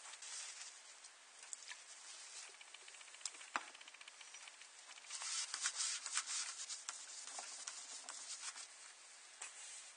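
Hands handling small objects at close range: light rustling with many scattered clicks, a sharp click about three and a half seconds in, and denser rustling a little past the middle.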